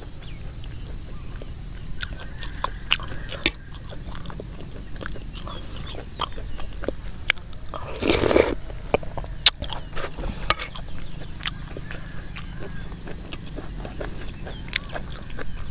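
Close-up eating sounds: chewing with many sharp little pops and crunches, typical of puffball mushrooms (het phoh) and pea eggplants bursting between the teeth. A louder half-second sound comes about eight seconds in as a spoonful goes into the mouth.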